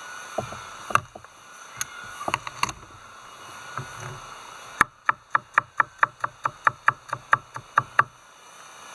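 Knife chopping on a wooden cutting board: a few scattered cuts, then a steady run of about fifteen quick chops, about five a second, stopping near the end.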